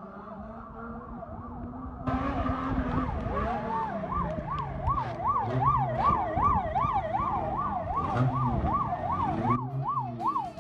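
Police car siren in a fast yelp, its pitch swinging up and down about two and a half times a second, starting about two seconds in over engine and road rumble.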